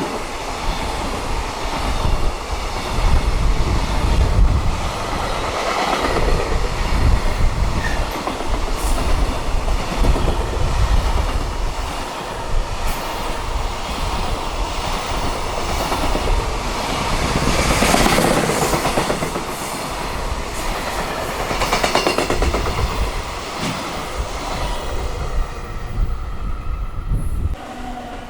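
A long freight train's wagons running past at high speed, the wheels clattering steadily over the rail joints with a continuous rumble. The sound cuts off sharply near the end.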